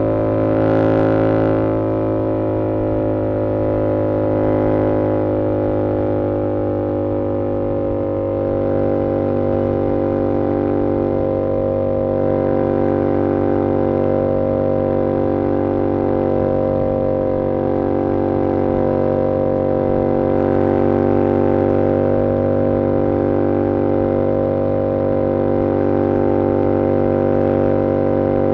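2022 Yamaha R7's 689cc parallel-twin engine through an SC-Project CR-T exhaust, running at a steady, nearly unchanging engine speed while cruising.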